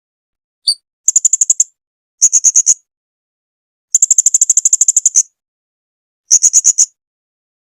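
Blue-crowned hanging parrot (serindit) calling: a single short high chirp, then four bursts of rapid high-pitched trilled notes at about a dozen notes a second, the longest burst lasting over a second.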